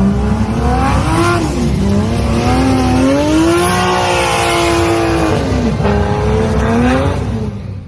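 Drift car engine revving hard through a run. The revs climb and fall several times and are held high in the middle, and the sound cuts off near the end.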